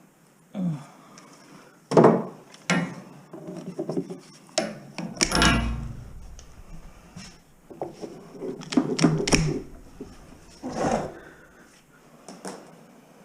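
Irregular knocks, clatter and rubbing as electrical wire is pulled and cut out of bare wall framing, with a heavy thump about five seconds in.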